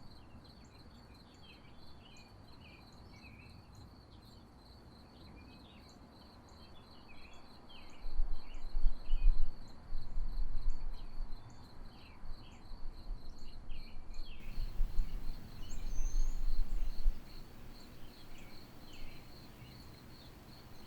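Crickets trilling steadily, with scattered short bird chirps. From about eight seconds in until about seventeen, loud low rumbles come and go over them.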